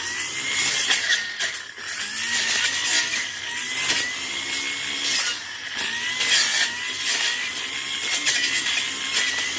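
Tanzu brush cutter running at high revs, its engine pitch wavering slightly as the cutting head works through thick brush, with repeated hissing bursts as it cuts.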